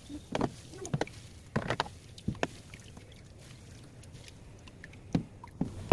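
Irregular splashing and sloshing of water with a few knocks in a top-loading washing machine tub soaking in sodium percarbonate for cleaning, in a flurry during the first couple of seconds and twice more near the end.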